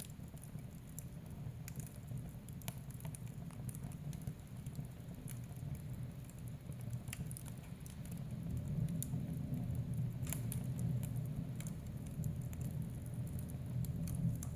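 Wood fire burning in a fireplace: irregular sharp crackles and pops over a steady low rumble of the flames, the rumble a little louder in the second half.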